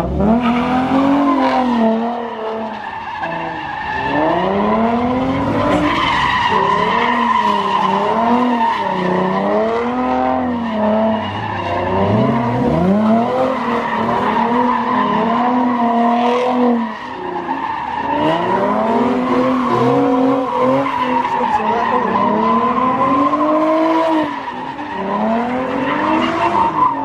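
Car tyres squealing steadily while the engine revs up and down again and again, as in a burnout or donuts. The engine note briefly drops away about two seconds in, near the middle and near the end.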